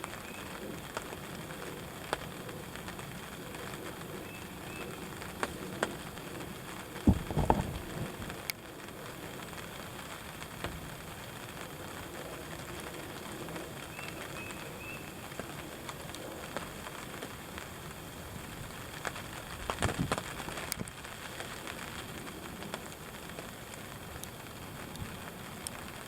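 Steady rain pattering on a ground blind, with many scattered drop ticks. A couple of brief low bumps sound about seven and twenty seconds in.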